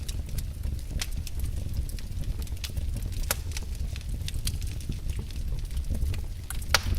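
Wood fire in a fireplace crackling: irregular sharp snaps and pops over a steady low rumble of the flames, with one louder pop near the end.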